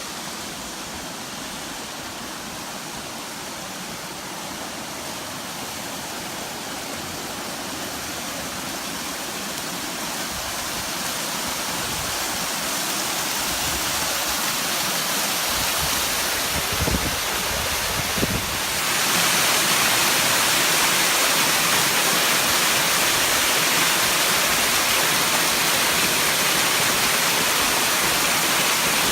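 Waterfall rushing steadily, growing gradually louder and then jumping up in level about two-thirds of the way through. Two brief low thumps come just before the jump.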